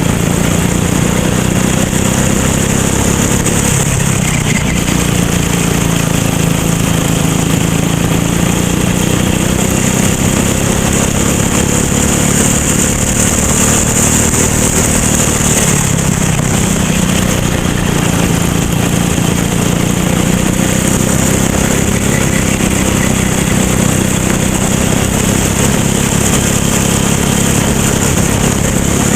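Racing kart engine heard onboard at race pace, its pitch slowly rising and falling as the kart accelerates and slows through corners, with a steady hiss over it.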